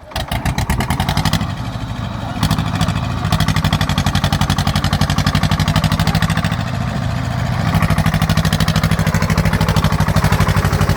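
Swaraj tractor's diesel engine running with a fast, even chugging pulse. It grows louder about two seconds in and again near eight seconds, as if the throttle is opened.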